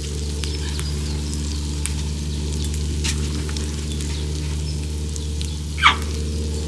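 Meat sizzling and crackling on a hot griddle over a steady low hum. About six seconds in there is one brief falling squeal.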